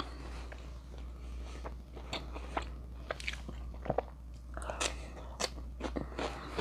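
A person chewing a mouthful of steak kebab with wet mouth clicks and smacks scattered throughout, a few louder ones about five seconds in.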